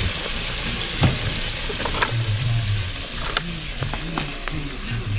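Food frying in hot oil, a steady sizzle, with scattered sharp clicks and a low booming bass underneath.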